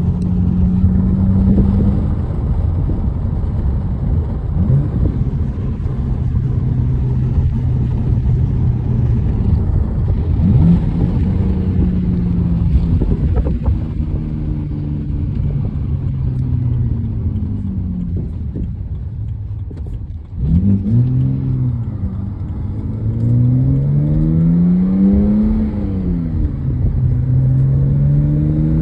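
A car driving, heard from inside the cabin: a steady low road-and-engine rumble. The engine note holds, steps down, then rises and falls several times as the car speeds up and slows. There is a brief break in the sound about two-thirds of the way through.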